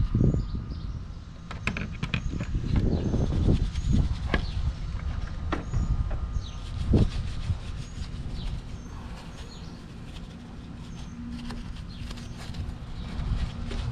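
Engine-bay cleaning noises: irregular clicks and knocks with low rubbing and handling rumble, and short high bird chirps repeating in the background.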